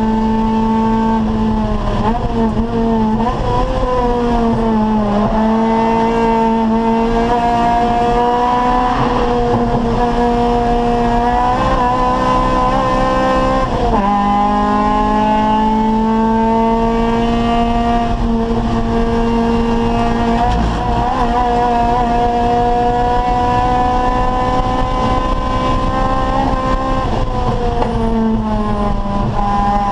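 Acura Integra race car's four-cylinder engine running hard under racing load, its pitch climbing and falling with throttle and gear changes. There is a sharp drop and fresh climb about fourteen seconds in, like an upshift, and falling pitch about five seconds in and again near the end.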